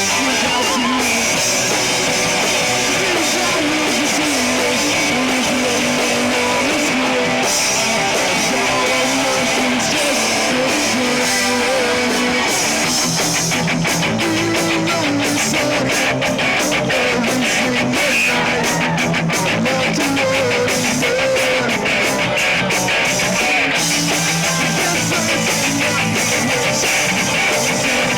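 Live rock band playing, led by guitar; about halfway through, dense rapid drum and cymbal hits join in.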